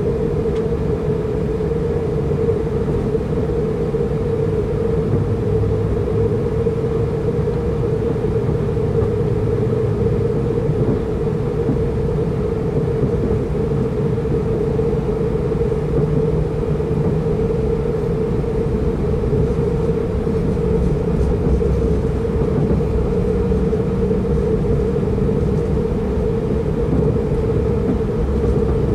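Inside a Pendolino tilting train running at speed: a steady rumble of wheels on the track, with a constant mid-pitched hum over it.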